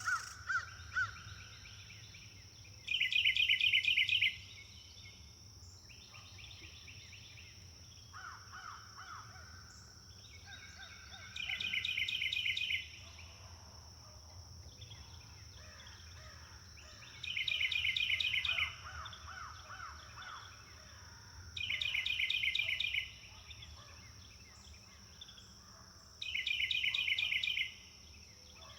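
Wild birds singing: one bird repeats a loud, short phrase of rapid notes five times, every four to six seconds, while other birds call more quietly in between. A steady high-pitched tone runs underneath throughout.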